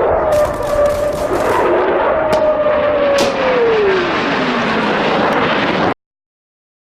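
Aeroplane flyby: a steady engine roar whose note slides down in pitch as it passes. It cuts off abruptly near the end.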